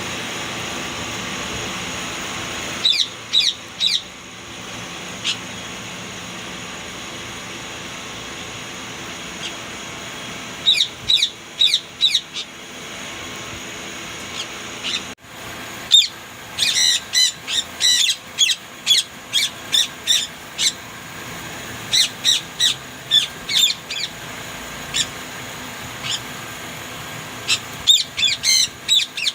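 Indian ringneck parakeets calling: runs of short, sharp, high-pitched squawks coming in bursts, several a second, over a steady hiss.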